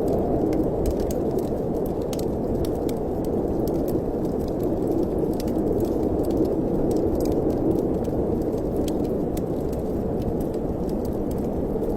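Wood fire crackling in a fireplace, with scattered sharp pops over a steady low rush of wind.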